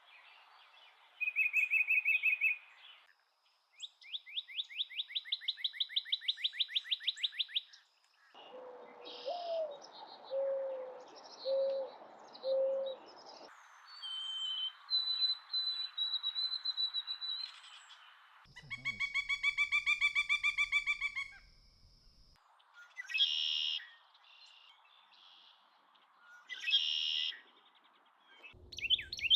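Calls and songs of several different birds cut one after another, each clip with its own background hiss: a short high trill, a long rapid run of high notes, a few low hoots, thin high whistles, a fast rattling call, then loud sharp chirps.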